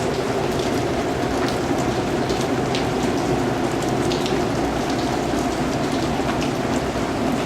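Steady rain falling on a surface, a dense even patter with scattered sharper drips.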